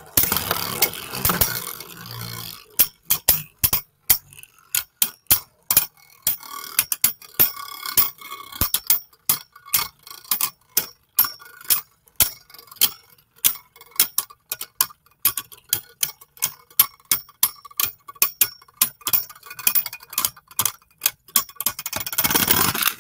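Beyblade Burst spinning tops, one fitted with 3D-printed parts, battling in a plastic stadium: a whir for the first couple of seconds, then rapid irregular clicks and clacks as the tops collide. A second short whir comes near the end.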